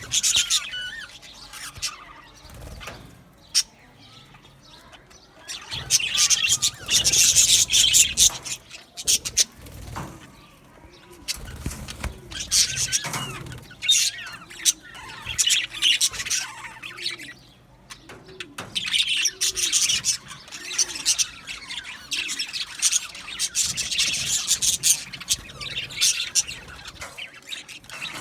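Budgerigars chattering and warbling, many birds at once in bouts of dense high chirping with quieter gaps between, and occasional sharp clicks.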